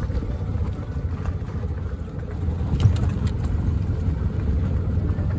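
A motor vehicle running with a steady low rumble, with a few faint clicks or rattles.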